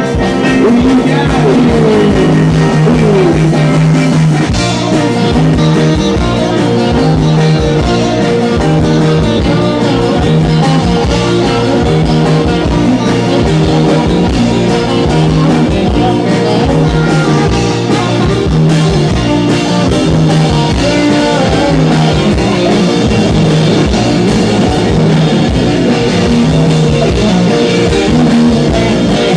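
Live rock band playing: electric guitar, bass and drum kit, with some singing.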